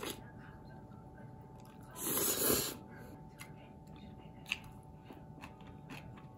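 Close-up eating sounds of someone chewing spicy cold noodles and grilled pork belly, with small wet clicks throughout and a louder noisy burst about two seconds in.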